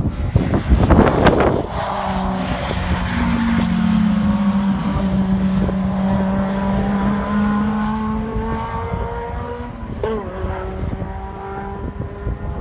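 Car engine on a race circuit, a steady, droning note from a car lapping the track, its pitch sinking slowly, after a first second or so of wind buffeting the microphone.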